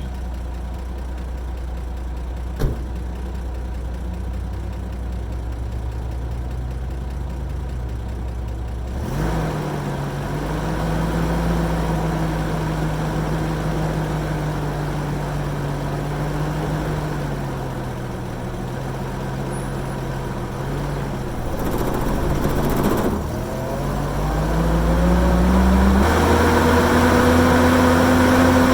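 1972 Toyota Land Cruiser FJ55's straight-six engine, heard from the front bumper. It runs low and steady, with a sharp click about two and a half seconds in. About nine seconds in the engine note rises as the truck pulls away, then it dips and climbs again through gear changes.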